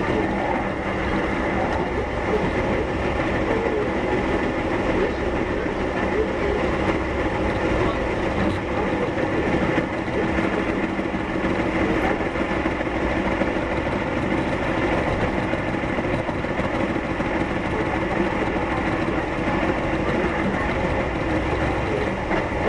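Keihan 1000 series electric train heard from inside the car while under way: steady running noise from the wheels and motors, with a few held tones and no sharp events.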